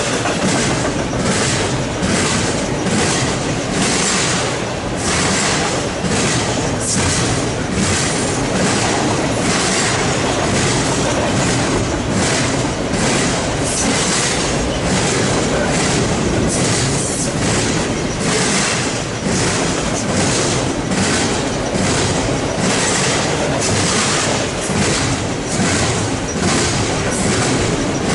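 Eastbound double-stack container freight train rolling past at track speed, its wheels clicking over the rail joints in a steady, repeating rhythm.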